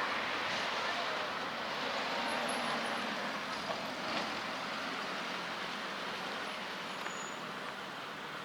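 Road traffic on a city street: a vehicle passing, loudest at the start, with the traffic noise easing slowly afterwards.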